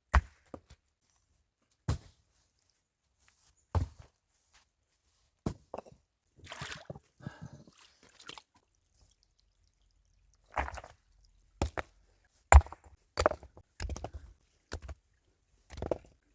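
Wood being chopped. Sharp single strikes come about every two seconds, then a stretch of rustling and scraping, then quicker, heavier strikes in the last six seconds.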